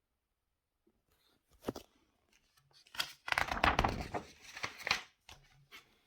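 Paper catalog pages being turned and handled: a brief rustle, then a louder stretch of paper rustling and crinkling lasting about two seconds, tapering off with a few light scrapes.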